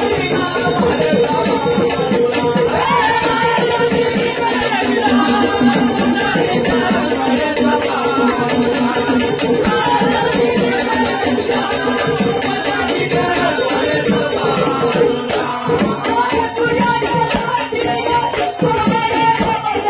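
Traditional Marathi Khandoba devotional folk music in gondhal style: a steady held drone under fast, dense rattling percussion.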